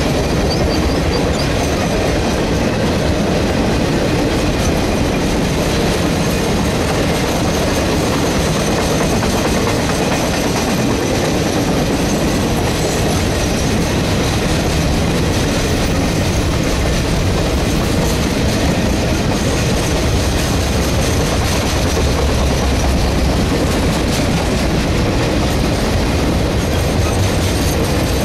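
Triple Crown RoadRailer trailers of an intermodal freight train rolling past at speed: a steady rumble with clickety-clack from the steel wheels on the rails.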